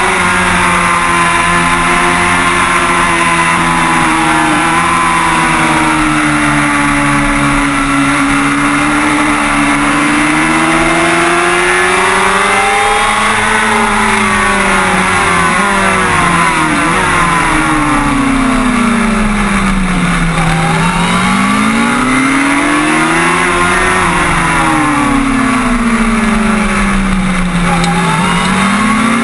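Kawasaki ZX-6R 636's inline-four engine running hard at high revs, heard onboard with a steady rush of wind. Its pitch holds and sways, then falls and climbs again twice in the second half as the bike slows for bends and accelerates out.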